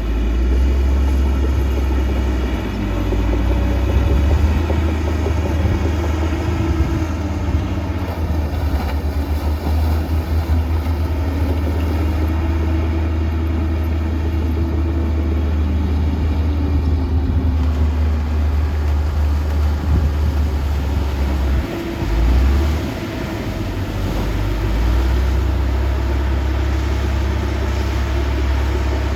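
Diesel engine of heavy earthmoving machinery running with a deep rumble, its pitch slowly rising and falling as it works, with a brief dip about 22 seconds in.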